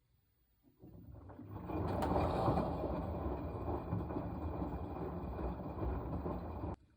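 Washing machine running: a rushing, churning noise starts about a second in, builds up, holds steady for several seconds and then cuts off suddenly.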